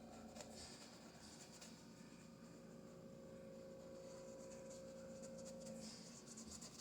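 Faint scratchy strokes of a paintbrush working acrylic paint, over a low steady hum.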